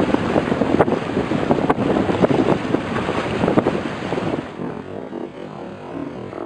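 Strong sea wind buffeting the microphone in gusts, with waves washing. It eases off about two-thirds of the way through.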